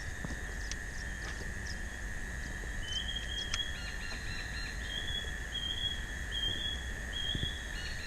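A bird calling: a run of short, clear whistled notes repeated about once a second, starting around three seconds in. Underneath is a steady high-pitched drone and a low outdoor rumble.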